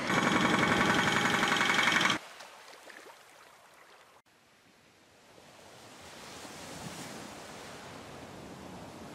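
Hydraulic breaker hammering rapidly on a concrete floor, cutting off suddenly about two seconds in. A steady rushing outdoor noise, like wind or surf, then swells up.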